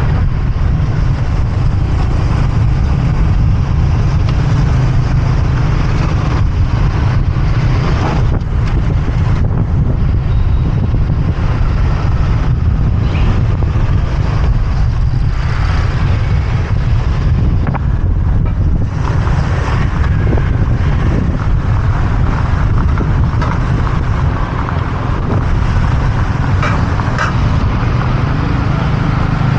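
Motorbike riding through city traffic: a steady low wind rumble on the rider's microphone over engine and street-traffic noise, with a brief dip in level about two-thirds of the way through.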